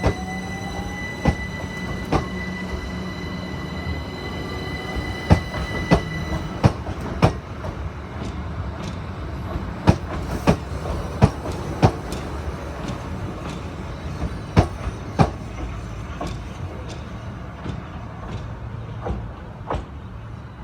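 A train moving over rail joints and points: irregular sharp clicks of the wheels over a steady low rumble, with a steady high whine that stops about six and a half seconds in.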